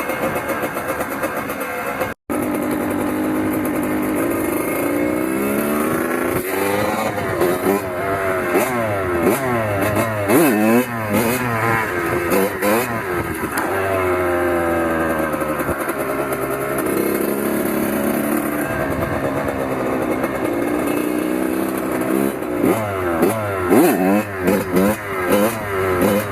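Two-stroke dirt bike engine revving up and down, its pitch rising and falling again and again as it is ridden.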